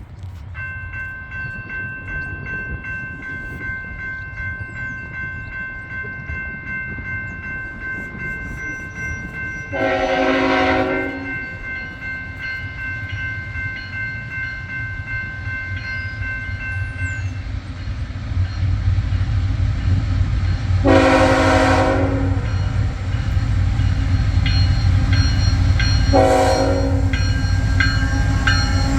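Diesel freight locomotive horn sounding three blasts, the last one short, with another beginning at the end, over the low rumble of the approaching train growing louder.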